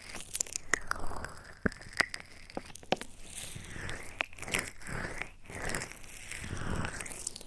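Close-miked ASMR trigger sounds: crisp clicks and crackles with soft swelling rustling, several seconds in.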